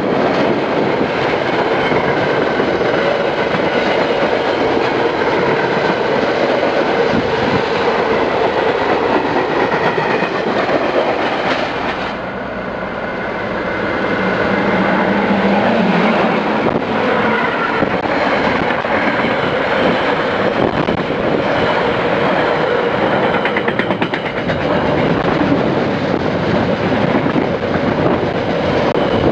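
A train running along the rails close by, its cars rolling past in a loud, steady rush, with a brief dip in level about twelve seconds in.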